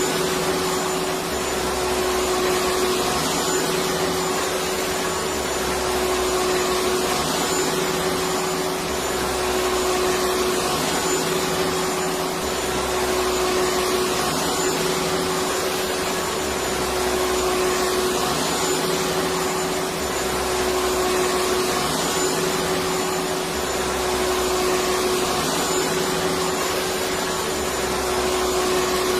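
Electric vacuum cleaner running steadily: a constant rushing hum with one steady tone and a faint low throb that repeats about every two seconds.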